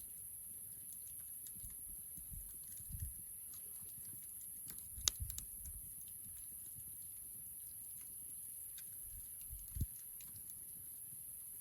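Wood campfire crackling, with irregular small pops and clicks, the sharpest about five seconds in, and a few soft low thumps.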